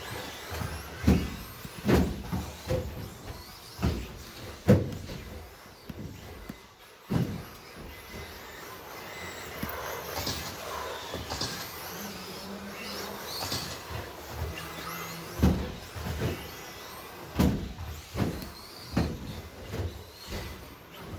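Electric RC stadium trucks with 13.5-turn brushless motors racing: faint motor whines rising and falling as the trucks speed up and slow down, with frequent sharp knocks and clacks from the trucks landing and bumping.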